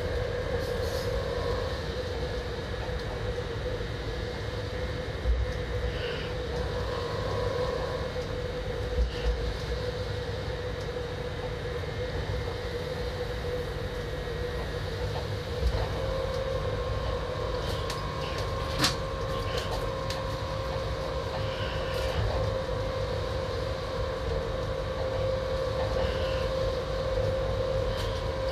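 Train running at speed, heard from inside the driver's cab: a steady rumble with a steady mid-pitched tone over it, and a few sharp knocks from the wheels on the track.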